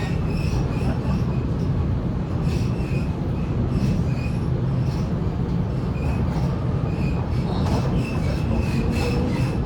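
Waratah A set electric train running along the line, heard inside the carriage: a steady low rumble of wheels on rail, with faint thin wheel squeals coming and going.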